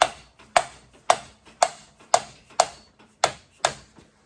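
Steady hammer blows on metal, about two a second, each with a short ring.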